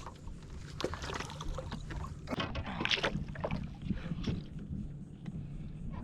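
Water slapping and knocking against the hull of a small skiff, with low wind rumble on the microphone.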